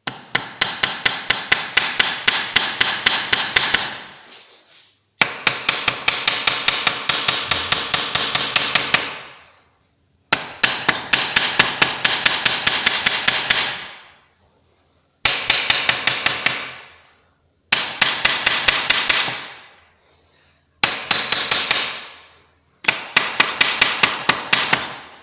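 Hammer striking the steel angle lintel over a fireplace opening in seven quick runs of blows, several strikes a second, with a ringing note between strikes; the angle is being knocked gently into place.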